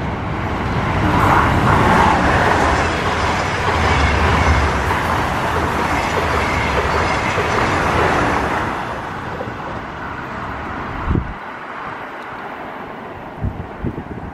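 Siemens ES2G 'Lastochka' (Desiro RUS) electric multiple unit passing through a platform without stopping: a loud rush of wheel and air noise that fades after about nine seconds. A short thump comes about eleven seconds in, and a few low thumps near the end.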